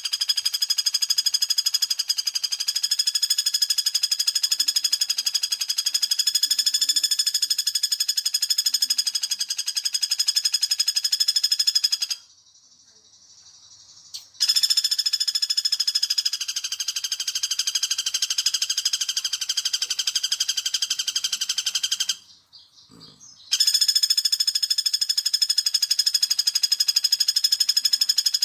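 Recorded lure call of the pelatuk bawang (common flameback woodpecker): a rapid, high, even rattling trill held for long runs, three times, with short breaks about twelve and twenty-two seconds in.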